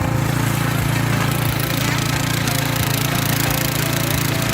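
Single-cylinder four-stroke 170 petrol engine on a walk-behind tiller-harrow, running steadily as the machine works the soil.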